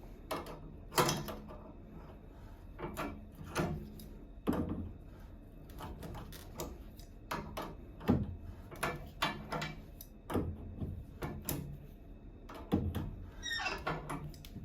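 Irregular clicks and knocks of tools and metal fittings being handled, typical of bathroom faucet replacement work, with a sharp knock every second or so.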